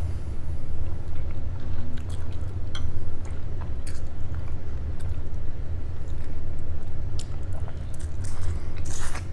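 Chewing and biting on crispy fried salmon, with scattered short crunches and clicks, over a steady low hum.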